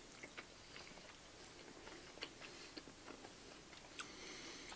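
Faint chewing of sushi and sashimi, with soft, scattered wet mouth clicks.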